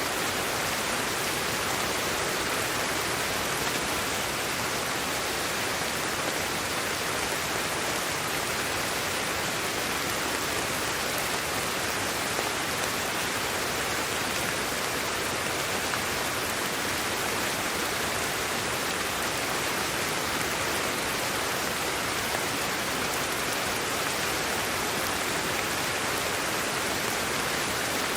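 Steady, unchanging white noise played as a sleep aid: an even hiss with no rhythm, tones or breaks.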